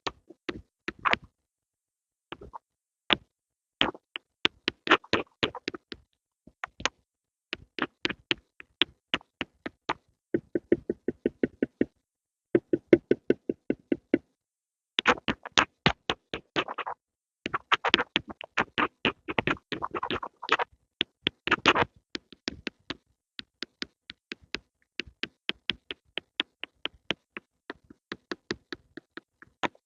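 Pencils making ASMR sounds: quick runs of light taps and clicks, several a second, with short pauses between the runs.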